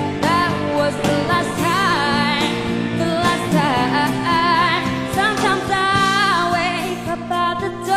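A song: a sung voice holding and bending notes with vibrato, without clear words, over sustained instrumental backing.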